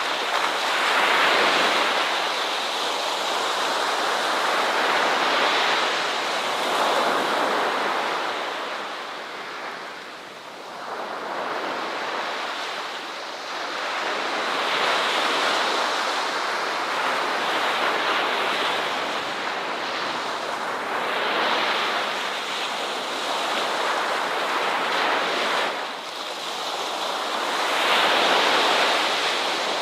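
Ocean waves breaking and washing on a beach, a steady surf hiss that swells and ebbs every few seconds, with a fresh surge near the end.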